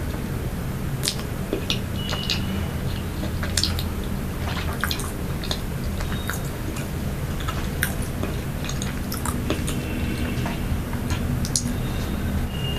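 Close-miked chewing of soft, sweet pastry and snack cake: many short, wet mouth clicks and smacks, over a steady low hum.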